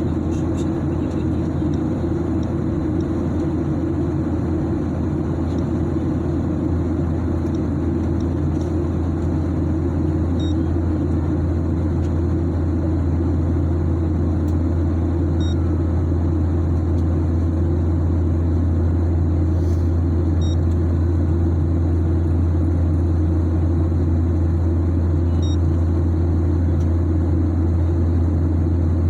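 Steady drone of an airliner cabin in flight: engine and airflow noise with a strong low hum, unchanging throughout. Faint short high pips sound about every five seconds.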